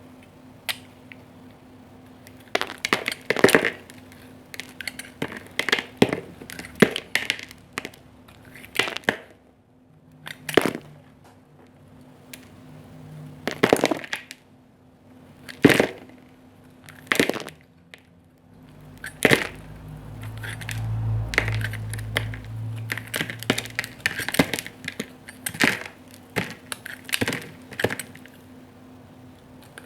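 A knife cutting and carving a bar of soap into cubes, giving crisp, irregular cracks and crunches, some in quick clusters. A low hum sounds for a few seconds past the middle.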